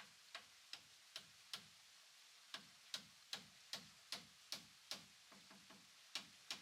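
Rhythmic knocking of a mallet on wood, sharp strikes about two and a half a second in two runs, with a pause about two seconds in and a few lighter taps near the end.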